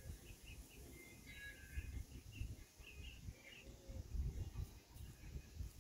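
Birds chirping faintly outdoors, a scattered run of short high notes, over an uneven low rumble on the microphone.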